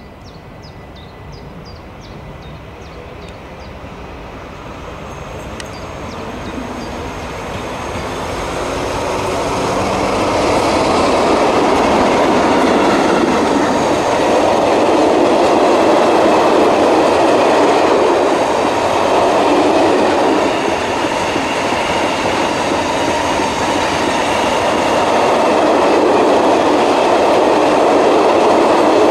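Heavy loaded iron ore freight train approaching, growing steadily louder over the first dozen seconds. Then its long string of loaded ore wagons rolls past with a loud, continuous rumbling rail noise.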